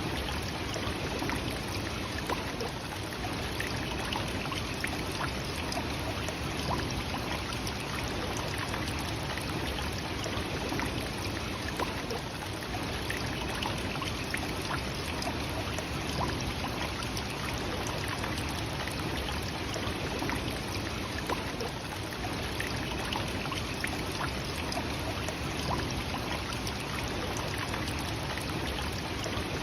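Nachi Falls, a single-drop waterfall of about 133 m, its water falling and splashing in a steady, unbroken rush.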